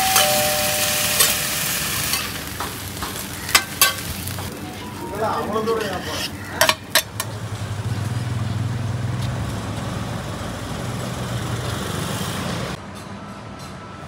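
Oyster omelette frying on a hot flat iron pan: a sizzling hiss, with sharp clicks and scrapes of a metal spatula against the pan. About halfway through this gives way to a steady low rumble of street traffic.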